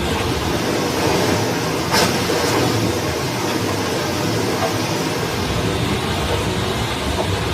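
Stream water rushing steadily, with a single sharp click about two seconds in.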